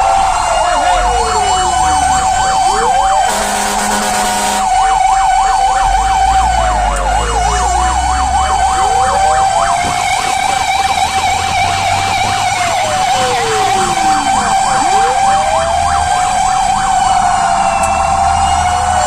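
Fire engine sirens sounding together: slow wails sweeping down and up every few seconds over a fast yelping warble and a steady tone. A short horn blast cuts in about three seconds in.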